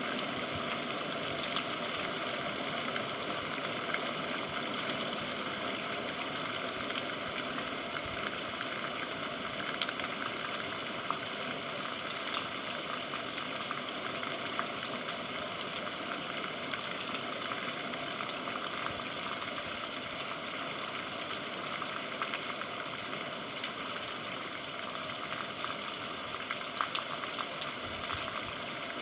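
Steady rain: an even hiss scattered with small ticks of drops.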